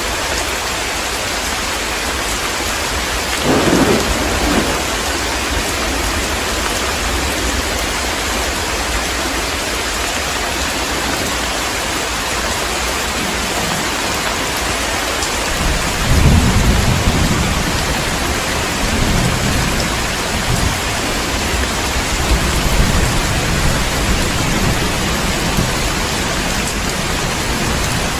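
Heavy steady rain with thunder: a short rumble about four seconds in, then a longer rolling rumble from about sixteen seconds that fades through smaller swells.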